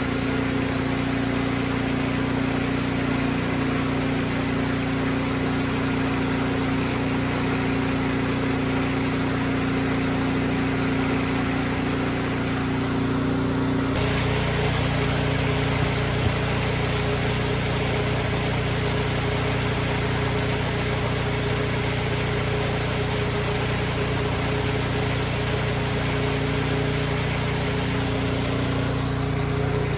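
Snow blower engine running steadily. About halfway through, its pitch steps abruptly higher.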